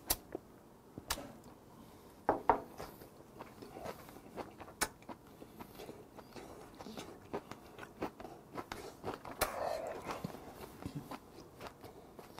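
Close-up mouth sounds of a man chewing a mouthful of grilled pork belly, pen shell adductor and aged kimchi: soft smacks and scattered clicks, with a few sharper knocks, the loudest about two seconds in.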